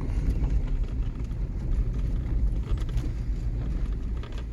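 A vehicle driving slowly over rough ground: a steady low rumble of engine and tyres.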